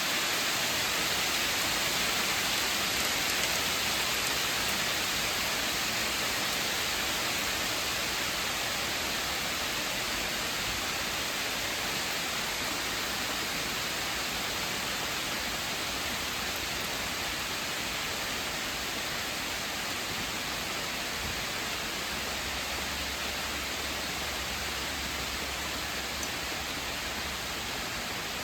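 Heavy rain falling in a steady, even hiss, easing very slightly over the stretch.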